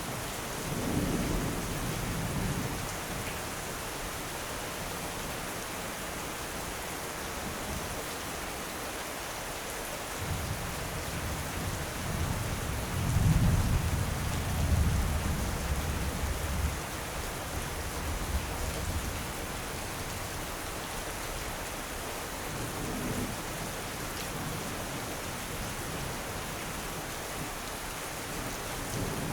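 Steady heavy rain with rolling thunder: a short rumble about a second in, a longer, louder one building from about ten seconds in and peaking a few seconds later, and a faint rumble near the end.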